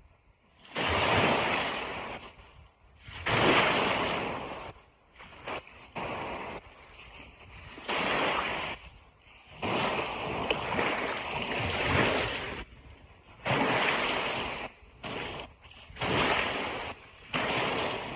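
Ocean surf washing onto a beach in repeated surges, each a second or two long, with short quieter gaps between them.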